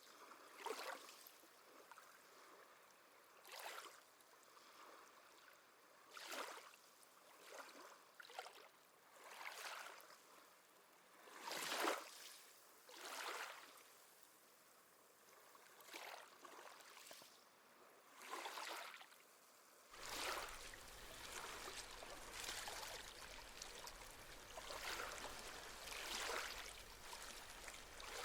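Small sea waves lapping and washing onto the shore, a soft surge of water every two to three seconds. About two-thirds of the way through, a steadier wash with a low rumble joins underneath.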